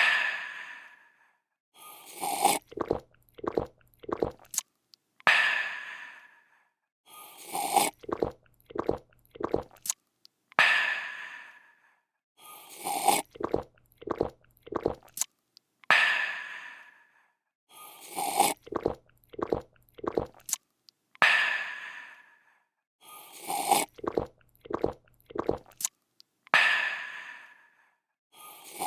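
A looped drinking sound effect: a person slurps, gulps several times, then lets out a long, fading 'aah'. The cycle repeats about every five seconds, five times over.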